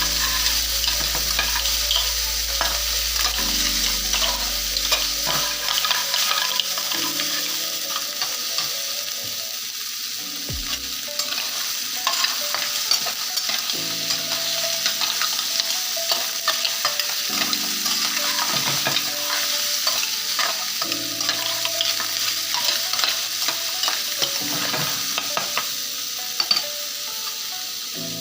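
Calamari, shrimp, leek and cherry tomatoes sizzling in hot oil in a frying pan while being stirred, with frequent light clicks of the utensil against the pan.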